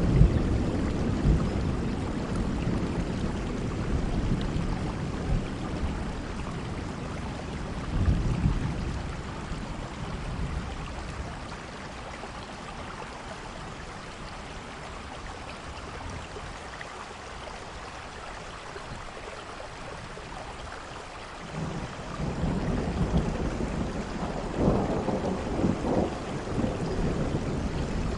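Heavy rain falling steadily while thunder rolls. A rumble dies away at the start and a short one comes about eight seconds in. After a quieter stretch, a new long rumble builds about two-thirds of the way through.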